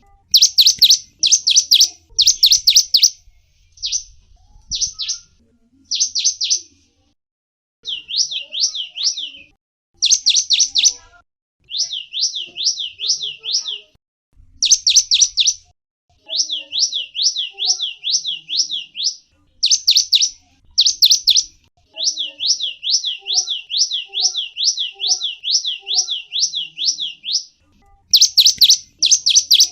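A small songbird, the bird called gelatik wingko, giving runs of rapid, high, down-slurred chirps, about five or six a second, in bursts of one to three seconds with short pauses between them.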